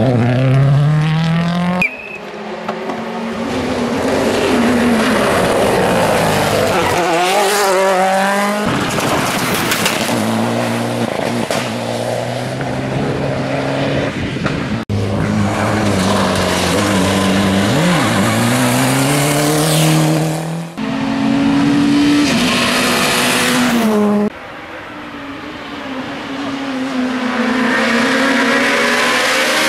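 Rally cars passing one after another in short clips, their engines revving up and dropping back through gear changes at high revs. The sound switches abruptly from car to car every few seconds.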